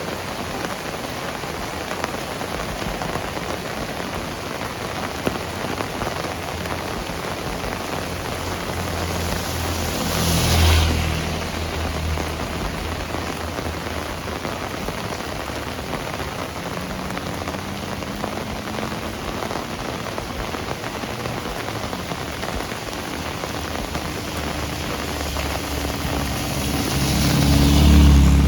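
Heavy rain falling steadily, with a vehicle passing on the wet road about ten seconds in and a louder one approaching and passing near the end.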